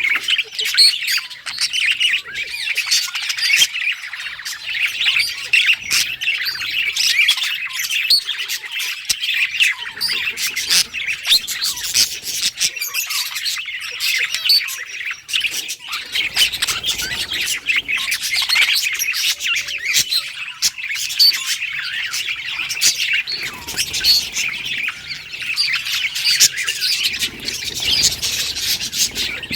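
Budgerigars chattering and warbling continuously, a dense run of rapid chirps with occasional sharp squawks.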